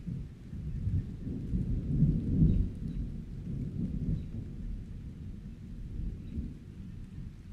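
A low, rolling rumble that swells about two seconds in and then eases off.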